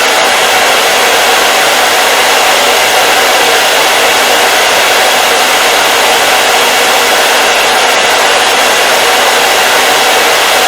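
Hair dryer running steadily: a constant, loud rush of blown air with a faint steady motor hum beneath it.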